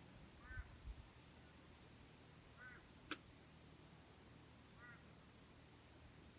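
Faint, steady high-pitched drone of night insects, with a short call repeating about every two seconds and one sharp crack from the campfire about three seconds in.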